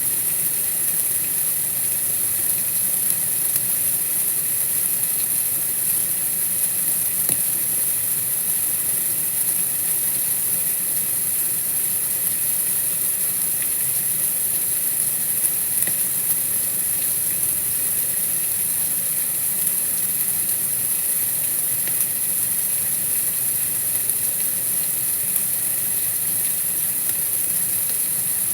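Steady, even hiss of white noise, brightest at the top of the range, with no distinct events.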